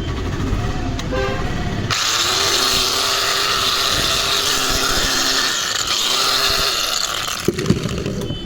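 A grinder running with a loud, high-pitched whir from about two seconds in, after a low rumble. It winds down near the end, followed by a few sharp knocks.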